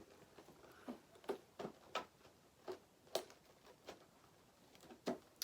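Light, irregular clicks and taps of objects being handled, about a dozen over five seconds, with two sharper ones near the middle and at the end.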